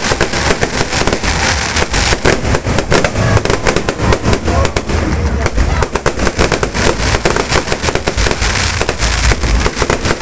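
A dense barrage of fireworks, rapid overlapping bangs and crackles many times a second with no let-up.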